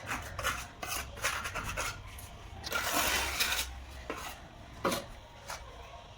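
Tile-setting work: a mason's trowel scraping against mortar and tile, with a series of short knocks and one longer scrape about halfway through.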